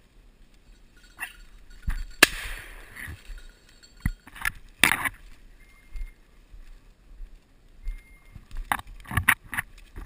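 A scatter of knocks, clicks and rustles, the loudest a sharp knock about two seconds in followed by a second of hiss.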